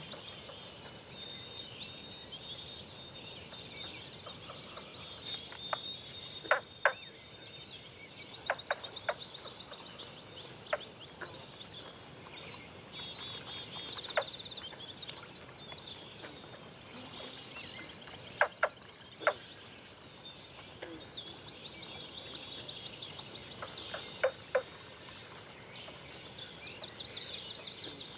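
Several birds singing at once, with high trills and repeated short notes. Sharp, short knocks, often in pairs, sound out every few seconds and are the loudest sounds.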